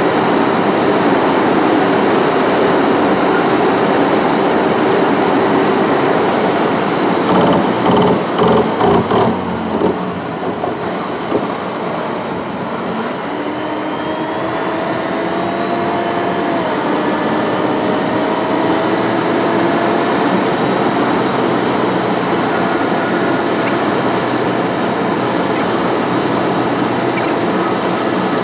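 Steady road noise of a car driving on a highway: tyre and wind noise with a faint tone that slowly rises in pitch. A short cluster of knocks comes about a third of the way through.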